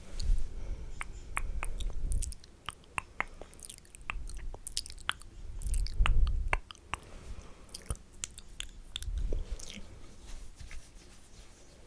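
Wet, spitty ASMR mouth sounds close to the microphone: quick clicks and smacks, with three bursts of low rumble.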